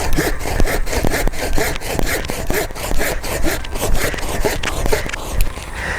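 Hand saw cutting through a thick apple-tree branch with quick, even back-and-forth strokes.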